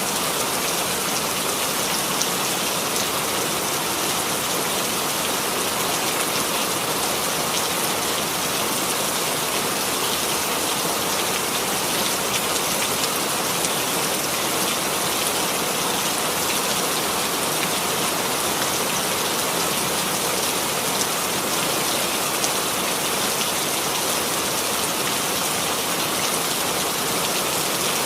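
Steady rainfall, a dense even patter of drops with fine scattered ticks, unchanging throughout.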